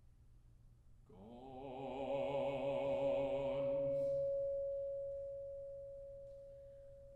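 Chamber ensemble playing contemporary classical music. About a second in, a low note with wide vibrato swells in under a steady, plain higher note. The vibrato note stops after about three seconds, and the plain note holds on alone, slowly fading.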